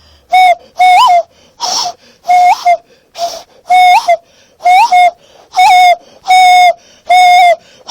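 Hand whistle blown through cupped hands across a small gap between the thumbs: a series of about ten short hooting notes, roughly one every 0.8 seconds. Each note holds one pitch, most with a quick upward flick.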